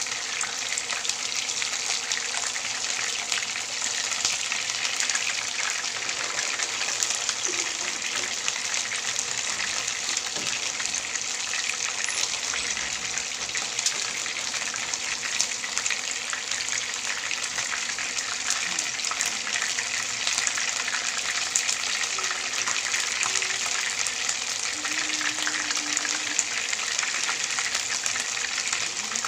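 Flour-coated chicken pieces shallow-frying in hot oil in a pan: a steady sizzle with fine crackles and pops throughout.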